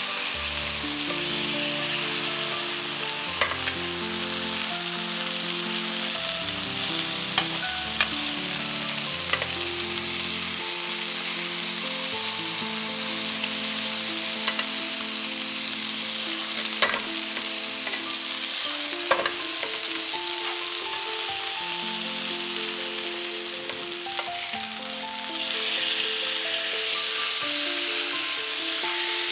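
Chicken breasts sizzling steadily in butter and oil in a frying pan, with a few sharp clicks of a metal utensil against the pan. Soft background music with piano-like notes plays underneath.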